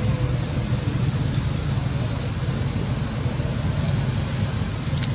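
Steady outdoor background noise with a low rumble, and a short, high, rising chirp that repeats about once a second.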